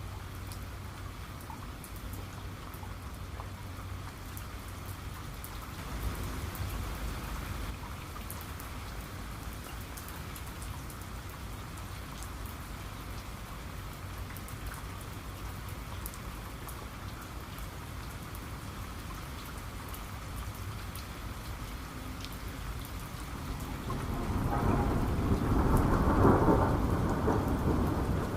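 Steady rain falling, with a faint low rumble of thunder about six seconds in and a louder, longer thunder rumble building near the end.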